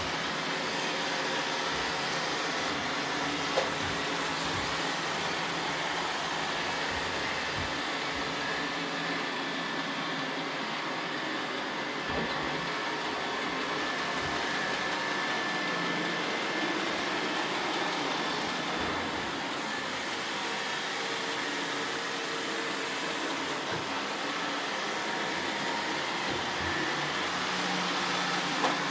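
Roomba robot vacuums running steadily, a constant whirr of suction fan and brushes, with a couple of sharp knocks.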